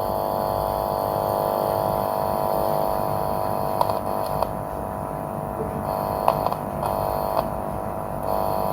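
Steady mains hum, several steady tones stacked together, from a homemade audio signal tracer probing the speaker terminals of an LED TV's amplifier. A few faint clicks come as the probe touches the terminals. Only hum comes through and no sound signal, which marks a faulty amplifier IC.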